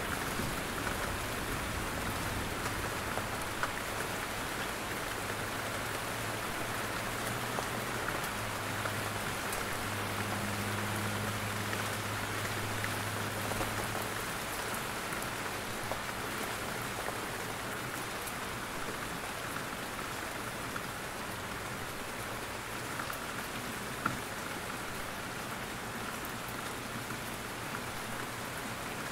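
Steady forest rain, drops falling from the trees, with a low rumble underneath that fades out about halfway through and one sharp drop tick near the end.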